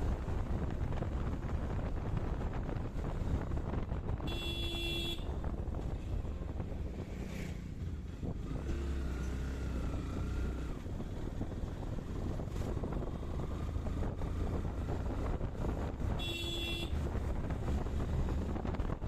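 Wind rushing over the microphone of a moving motorcycle, with steady engine and road rumble underneath. A short horn honk sounds twice, about four seconds in and again near the end.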